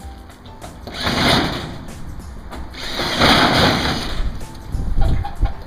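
Power drill boring into timber, in two runs: a short one about a second in and a longer one around three seconds in. The holes are being enlarged from pilot holes to take the frame's bolts.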